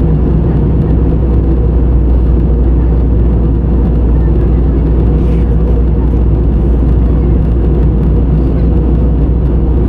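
Steady cabin noise of a jet airliner: an even, loud low rumble of engines and rushing air, with no change in level.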